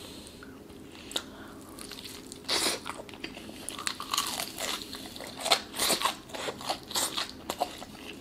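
Close-miked biting and chewing of a sauced Popeyes fried chicken thigh. A crisp bite comes about two and a half seconds in, then the crunchy breading is chewed with many short crackles.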